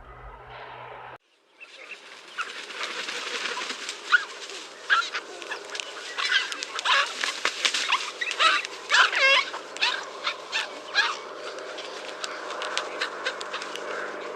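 About a second and a half in, a flock of geese starts honking: many short calls overlapping one another, loud and uneven.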